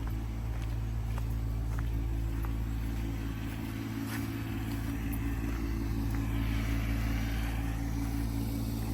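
Tractor engine running steadily while towing a dead truck, a low even drone with a few faint clicks over it.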